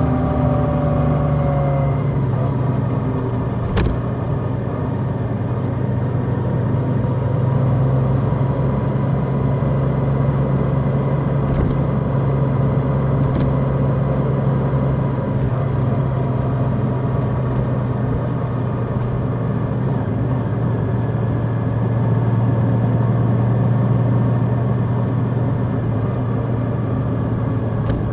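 Large motorcycle being ridden at a steady cruise, its engine running at an even pitch under road and wind noise. A single sharp click comes about four seconds in.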